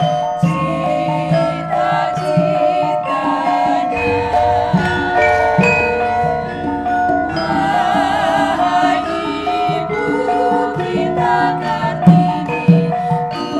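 Javanese gamelan ensemble playing, bronze metallophones and gongs ringing, with singing over it.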